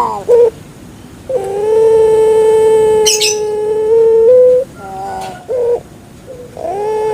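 Puter pelung dove (a domestic collared dove bred for its long call) cooing: a short note, then a long, steady, drawn-out coo of about three seconds that steps up slightly at its end, two short notes, and another long coo starting near the end. A brief high chirp cuts across about three seconds in.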